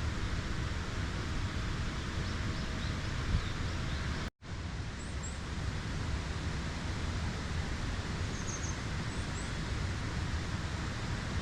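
Steady outdoor background noise with a heavy low rumble, and faint short high bird chirps a few times. The sound drops out completely for a split second about four seconds in.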